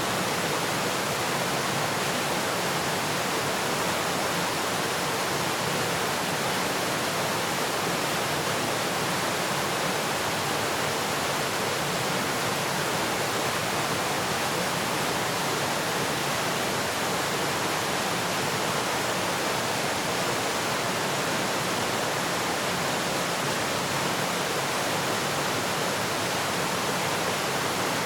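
Waterfall: water falling and rushing in a steady, unbroken stream of noise.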